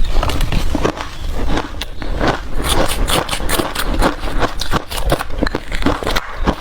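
Ice being bitten and crunched in the mouth close to the microphone: a rapid, unbroken string of sharp cracks and crunches.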